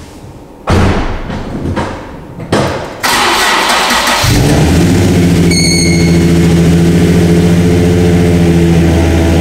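Nissan 350Z's 3.5-litre V6 being started: a couple of loud knocks, a short burst of cranking and catching, then about four seconds in the engine settles into a steady, loud idle.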